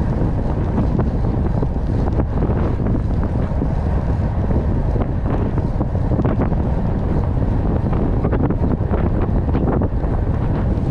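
Wind buffeting the microphone of a rider on a moving bicycle: a steady low rumble with a few faint knocks.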